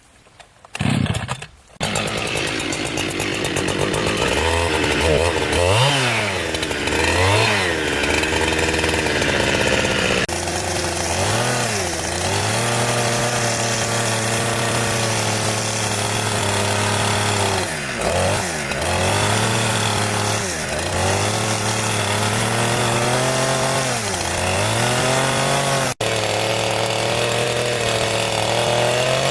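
Two-stroke chainsaw starting about two seconds in, then running hard, its engine pitch dipping and climbing back again and again as the chain bites into wood.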